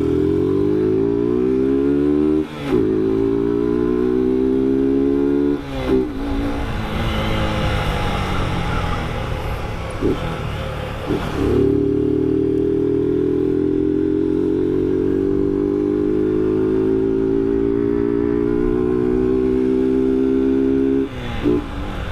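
Motorcycle engine heard from the rider's seat, pulling hard and rising in pitch through two gears with quick upshifts about two and a half and six seconds in. After a rougher stretch it holds a steady cruising note until the throttle eases near the end.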